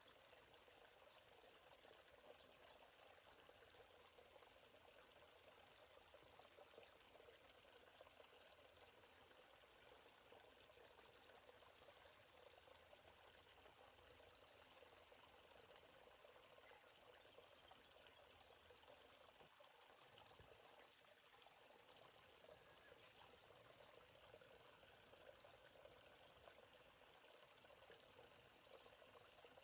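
Steady, high-pitched chorus of insects such as crickets over the faint, even rush of a forest stream.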